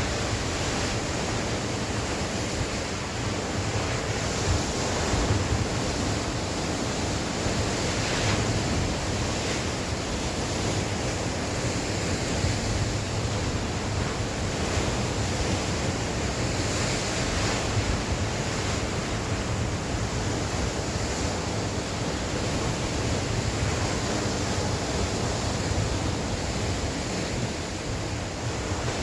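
Sea waves breaking and washing on the shore, a steady rushing surf that swells and eases every few seconds, with wind blowing across the microphone.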